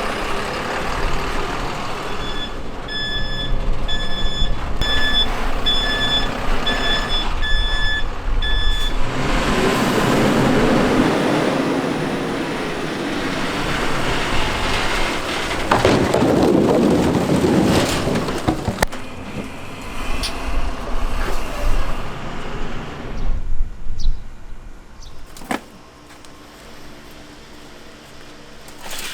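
A vehicle's reversing alarm beeping, a little under two beeps a second for about six seconds, over engine rumble. It is followed by several seconds of louder, unpitched noise, then a few sharp clicks.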